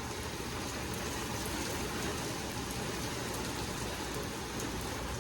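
Heavy rain falling steadily on surfaces, an even hiss with faint drop ticks, with wind gusts in a thunderstorm.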